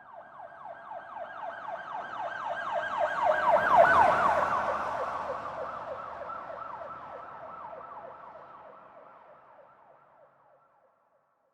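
Emergency vehicle siren in a fast yelp, its pitch rising and falling several times a second. It grows louder as the vehicle approaches and peaks with a rush of road noise as it passes about four seconds in. It then fades away as the vehicle drives off.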